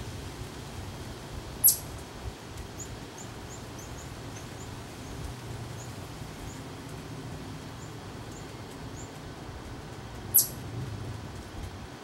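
Birds calling around a woodland feeder: two sharp, very high chips that sweep downward, about a second and a half in and again near the end, with a run of faint, short high chirps between them. A low steady rumble of background noise runs underneath.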